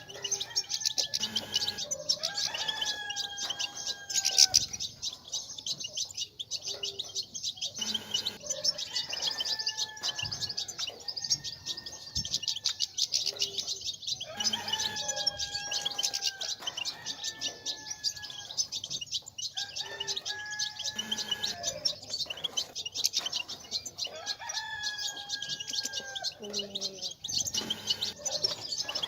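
European goldfinches twittering and chattering rapidly in a dense, continuous chorus: the goldfinch chatter played to stimulate caged males to sing. A lower, drawn-out call breaks in about every five to six seconds.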